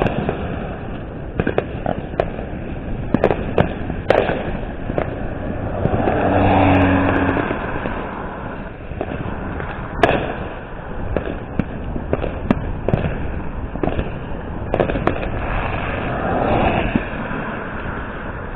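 Fireworks going off: an irregular run of sharp bangs and pops, some faint and some loud, with the sharpest bang about ten seconds in.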